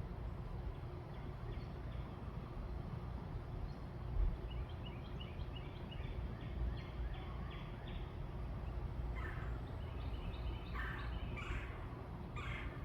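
Birds calling over a steady low background rumble: a run of quick, evenly repeated short notes about halfway through, then several louder calls near the end.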